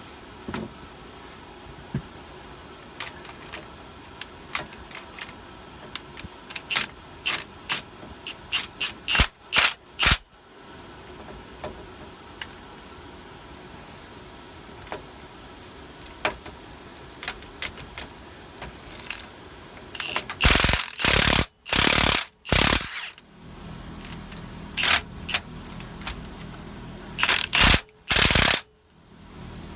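Tightening the airbag mount nuts under a 1984 Bluebird Wanderlodge. First come scattered ratchet clicks and metal-on-metal ticks, then two clusters of loud short bursts from a pneumatic impact wrench, the later one near the end.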